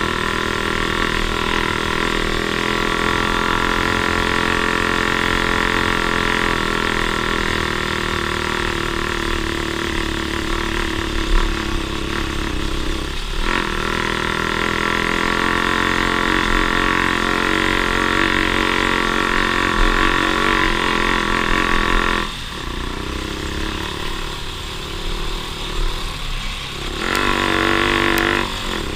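Off-road vehicle engine running steadily, its pitch shifting with the throttle. It eases off about two-thirds of the way through and comes up again briefly near the end.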